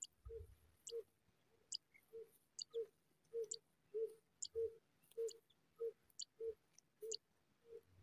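Faint, steady bird calling at a nest: thin, high chirps about once a second over a soft, lower note repeated evenly a little under twice a second.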